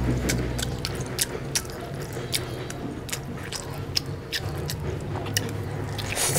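Close-up eating sounds of a man biting and chewing meat torn from a cooked mutton leg bone: many irregular, sharp, wet clicks and smacks.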